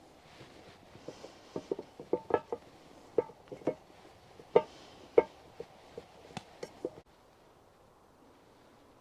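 A run of about twenty irregular sharp knocks and light clinks of objects being handled, some with a short ring, then the background noise cuts off abruptly about seven seconds in.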